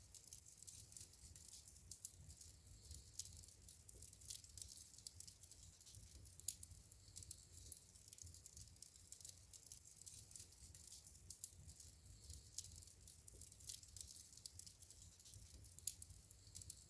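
Wood fire crackling in a fireplace, faint: a steady hiss and low rumble with frequent small irregular snaps, and a couple of sharper pops.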